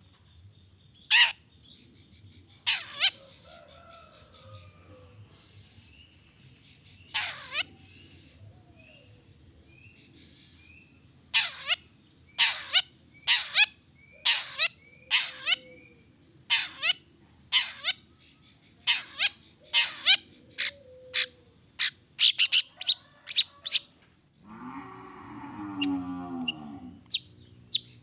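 Long-tailed shrike (cendet) calling: short, sharp, high notes that sweep downward, a few spaced ones at first and then a fast run of repeated notes. Near the end comes a lower, harsh rasping call.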